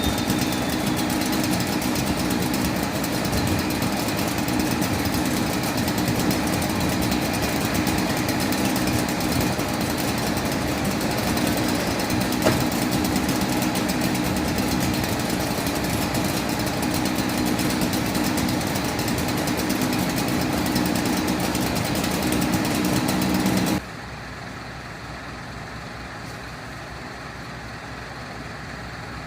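A motor running steadily with a rattling, hammering note, cutting off abruptly near the end and leaving a quieter steady hum.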